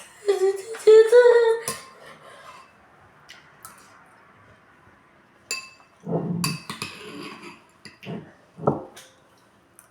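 A child's high-pitched drawn-out vocal sound, then a spoon clinking against a bowl several times while eating porridge.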